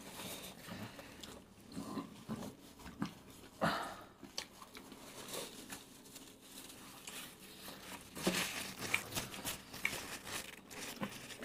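Close-miked chewing and biting of several people eating burgers and fried chicken lollipops: soft wet mouth sounds and small smacks and clicks, with a couple of louder sharp sounds about a third of the way in and about three quarters of the way in.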